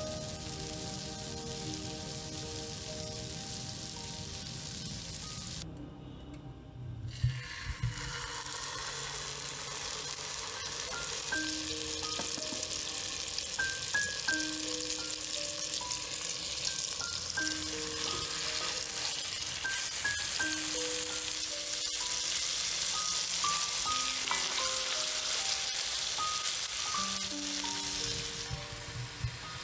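Butter sizzling and foaming in a nonstick frying pan, then raw chicken breasts frying in the hot butter. A short break about six seconds in, and a few soft knocks as the chicken goes into the pan.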